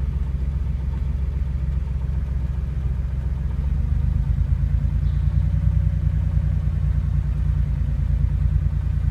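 Porsche 911 flat-six engine running steadily, a little louder from about four seconds in, with a knock that the owner is recording as an engine fault.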